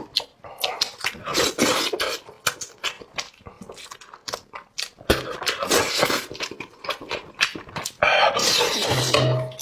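Close-up eating sounds: repeated slurping and chewing in short noisy bursts, with clicks of utensils on dishes and a longer slurp or sharp breath about eight seconds in.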